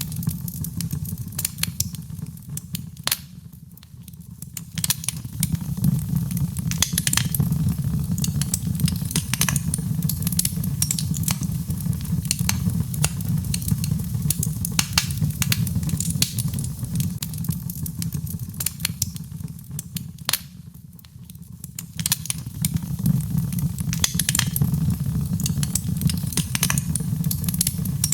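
Birchwood fire burning in a fireplace: dense, irregular crackles and pops over a steady low rumble of the flames. It eases off briefly twice, about four seconds in and again about twenty-one seconds in.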